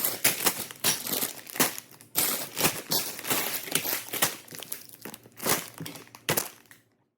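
Plastic packaging, such as a LEGO set's parts bags, crinkling and crackling as it is handled, in irregular sharp crackles. The sound stops abruptly near the end.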